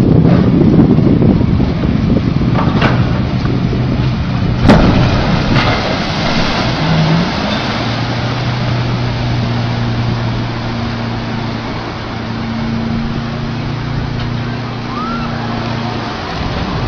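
Wind buffeting the microphone over a steady low engine hum, with a single sharp knock about five seconds in.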